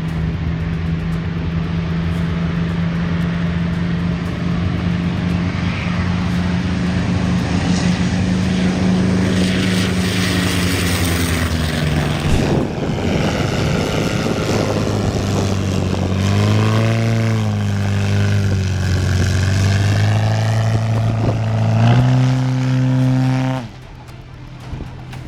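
An engine running with a steady hum that shifts pitch up and down several times in the second half, then cuts off abruptly near the end.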